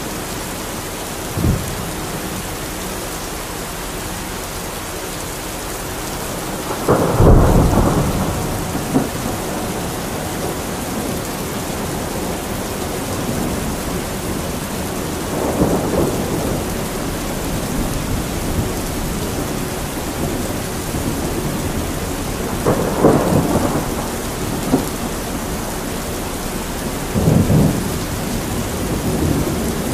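Thunderstorm: steady rain with thunder. A brief crack comes about a second and a half in, then four rolling peals, the loudest about seven seconds in and the others spread through the rest.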